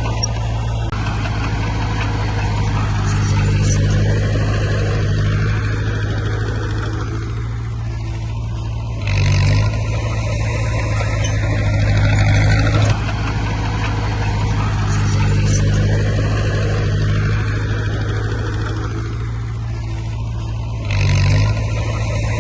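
Bulldozer's diesel engine working steadily under load, its note swelling and sinking in a repeating cycle as it pushes soil, with a short jump in engine level about nine seconds in and again near the end.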